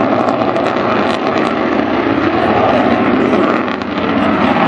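F-16AM Fighting Falcon's jet engine running with the afterburner lit as the fighter accelerates out of a slow, high-angle-of-attack pass: loud, steady jet noise that dips briefly near the end.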